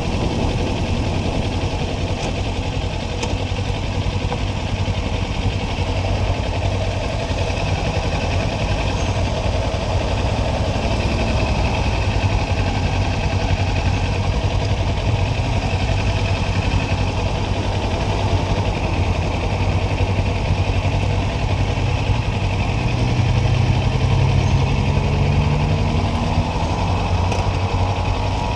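Kawasaki Ninja 400's parallel-twin engine idling steadily at a stop, then revving up with a rising note near the end as the motorcycle pulls away.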